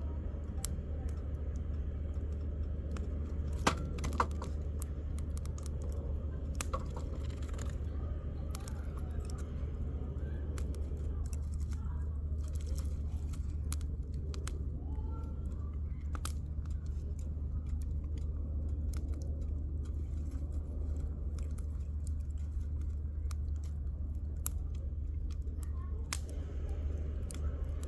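Burning firewood in a campfire crackling, with irregular sharp pops, a few louder ones about four seconds in and another near the end, over a steady low rumble.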